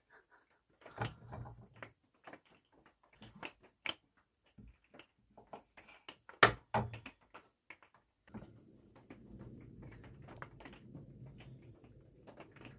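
Scattered clicks and knocks of cooking utensils against cookware while the fettuccine is mixed and plated, one knock about six and a half seconds in louder than the rest. A faint steady low noise comes in about eight seconds in.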